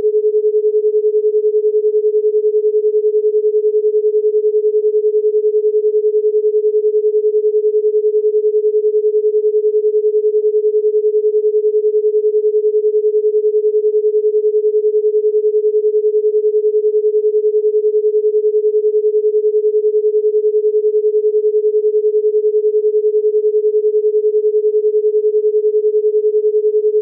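A single steady pure tone at one mid pitch, held unbroken and unchanging throughout, like an electronic test tone.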